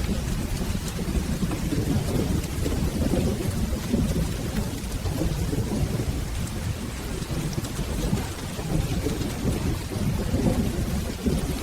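Steady rain with a low, continuous rumble of rolling thunder underneath.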